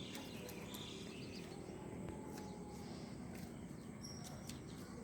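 Outdoor ambience: faint bird chirps and short high whistles over a steady low background noise.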